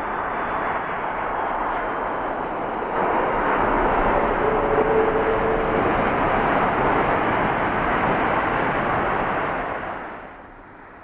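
Jet noise from the Airbus A330-202's two GE CF6-80E1 turbofan engines as the airliner passes on its landing. It gets louder about three seconds in, then falls away sharply near the end.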